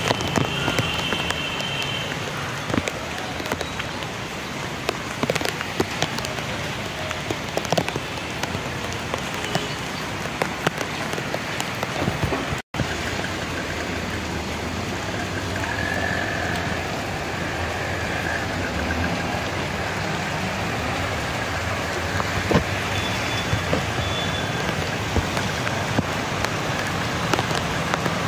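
Heavy monsoon rain pouring onto a flooded street and standing water: a steady hiss with scattered drop impacts. It cuts out for an instant about halfway.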